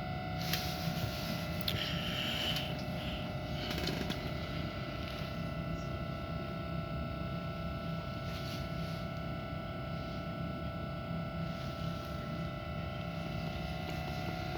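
Steady hum inside a stopped train carriage, several even tones held over a low drone, with a few faint rustles and clicks in the first few seconds.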